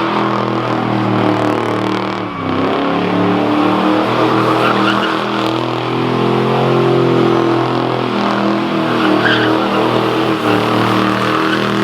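Car engine held at high revs in a burnout, with the spinning tyres hissing. The revs dip briefly about two seconds in and then climb back.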